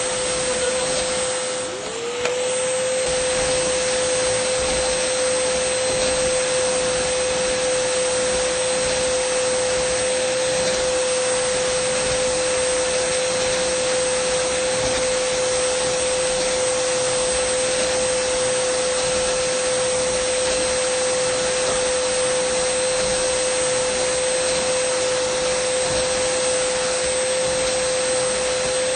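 Dyson vacuum cleaner running steadily: a constant whine over a loud rush of air. About two seconds in, the whine briefly drops in pitch and level, then climbs straight back.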